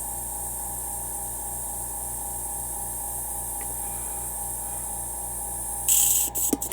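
Airbrush compressor running steadily with a regular low pulsing. Near the end comes a short, loud hiss as the airbrush sprays cleaner out into a cleaning pot, followed by a few clicks.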